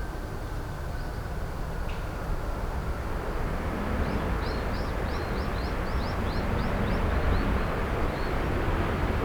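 Jet airliner engine noise, a steady low rushing rumble that grows gradually louder. In the middle a bird gives a quick run of about ten short high chirps.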